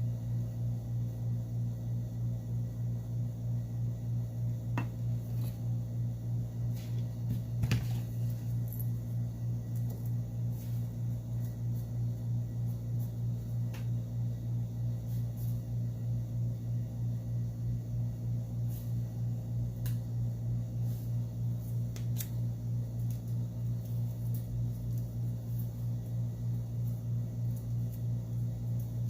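A steady low hum with a gently pulsing level, like a fan or electrical hum, with scattered faint clicks and taps of small parts being handled, one sharper tap about a third of the way in.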